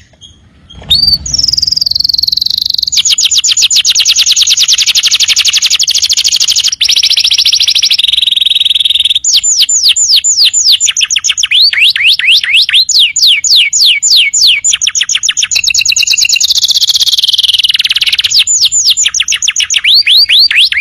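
Domestic canary singing a long song made of fast trills, each a single note repeated rapidly, switching to a new trill every second or two. The song drops out briefly just after it begins and then runs on without a break.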